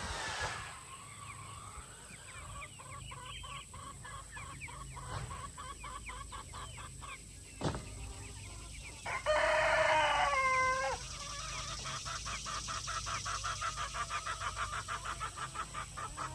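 Chickens clucking, with one loud, long crow about nine seconds in that drops in pitch at its end, followed by a fast run of short repeated clucks. A single sharp knock comes shortly before the crow.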